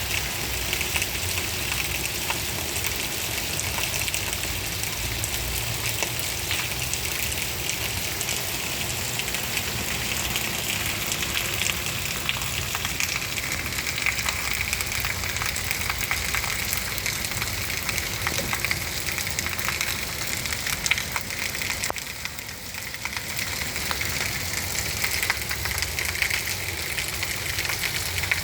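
Steady heavy rain falling, a dense even hiss of countless drops pattering, briefly a little softer about three quarters of the way through.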